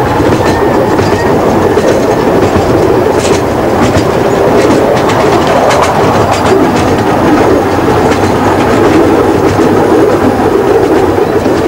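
Miniature-railway train running along the track: a steady rumble of wheels on rail, with irregular clicks as the wheels pass over rail joints.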